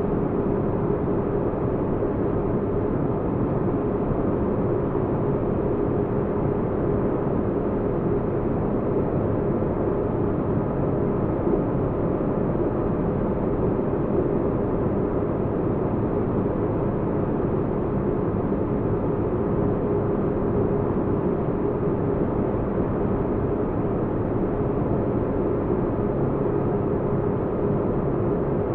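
Sci-fi spaceship interior ambience: a steady low rumble with a humming tone held through it, unchanging, with no separate events.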